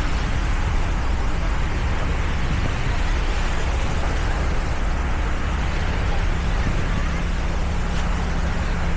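Steady motor vehicle running with road noise: a constant low rumble and a faint hum, unchanging throughout.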